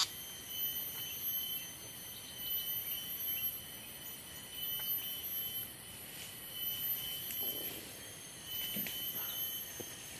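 Insects chirring in a steady high-pitched chorus that swells and fades every second or two, with a few faint knocks near the end.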